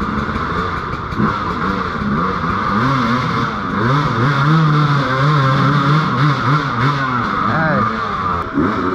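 Motorcycle engine running under way, its pitch rising and falling as the throttle opens and closes, over a steady rushing noise.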